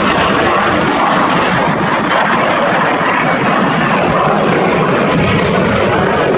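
Aircraft flying a display pass, its engine noise a loud, steady rush with no break.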